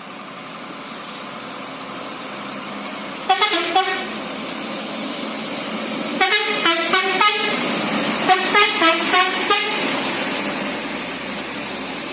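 A truck approaching, its running noise growing louder, while it sounds a multi-tone musical horn in short notes of changing pitch. There is a brief burst about three seconds in, then two runs of quick notes, around six and around eight seconds in.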